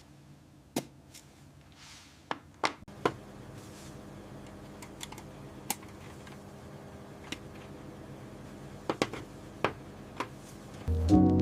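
Scattered small clicks and taps, a dozen or so at uneven intervals, over a faint steady hum. Music comes in about a second before the end.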